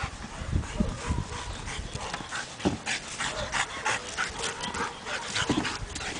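A working dog panting hard in quick, irregular breaths, with a few low thumps in between.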